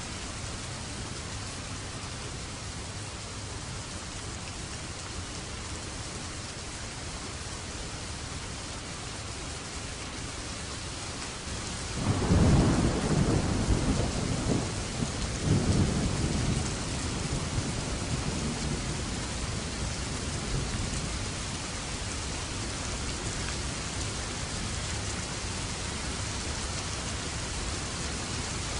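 Steady rain with a thunderclap about midway that rumbles and fades away over several seconds; another roll of thunder begins right at the end.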